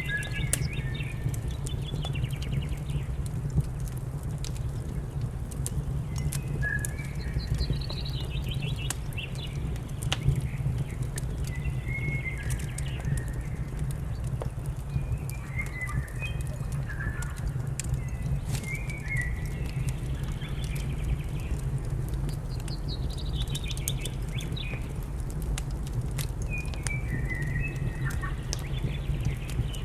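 A fire crackling in a fireplace, with sharp pops scattered throughout over a steady low hum. Small birds chirp in short phrases every couple of seconds.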